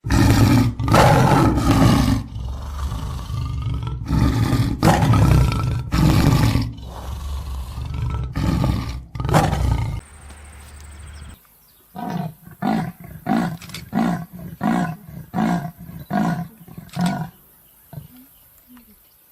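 A large animal roaring, loud and low, in a string of rough calls for about ten seconds; after a cut, a run of about nine short calls, evenly spaced roughly every half second, before it goes quiet near the end.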